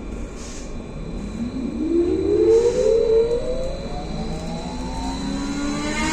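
BKM-43300D trolleybus's electric traction drive whining as it accelerates. The whine rises steadily in pitch over a few seconds, with a second rising whine near the end.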